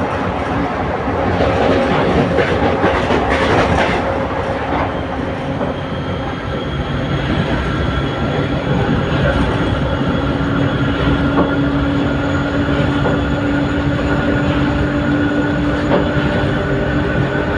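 Passenger train running along the track: a steady rumble of wheels on rails with some clickety-clack over rail joints, and a thin, steady wheel squeal that comes in about six seconds in and continues.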